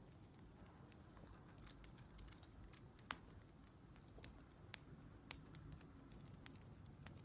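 Faint crackling of a wood fire: irregular sharp pops and snaps over a low hum, the loudest about three seconds in.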